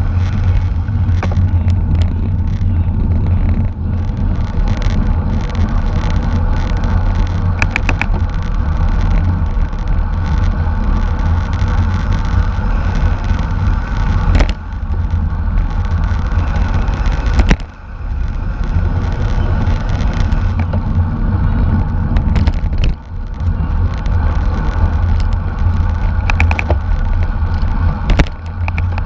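Steady wind rush and road rumble from a racing bicycle at speed, heavy and low, with a few sharp knocks about halfway through and near the end.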